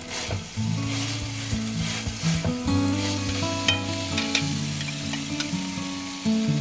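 Ground chicken and doubanjiang paste sizzling in a two-handled metal wok while a wooden spatula stirs and scrapes through it, with background music playing throughout.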